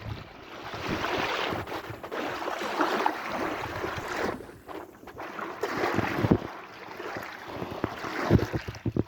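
Sea waves washing and splashing, swelling and easing in surges, with a short lull about halfway through and choppy splashes near the end.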